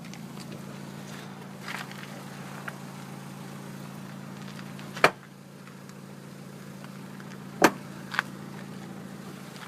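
Car engine idling, a steady low hum, with two sharp clicks in the second half.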